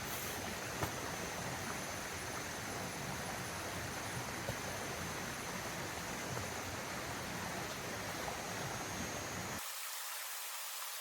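Steady rush of running water. About nine and a half seconds in, its low rumble cuts out abruptly and only the hiss goes on.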